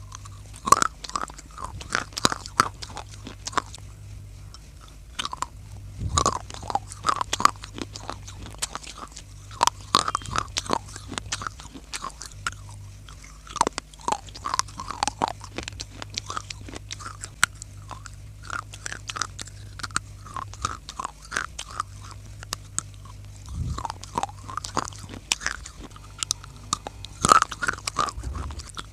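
A person biting and chewing pieces of dry clay, making many sharp crunches at an irregular pace, with a faint low hum underneath.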